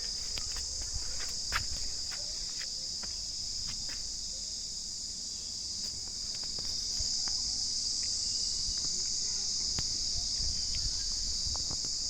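Steady high-pitched chorus of insects such as crickets or cicadas, a continuous even buzz that grows a little louder about seven seconds in.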